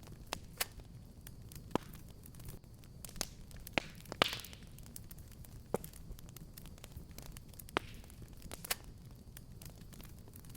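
Wood fire burning in a fireplace: a steady low rumble of flames with scattered sharp crackles and pops, the loudest pop about four seconds in followed by a short hiss.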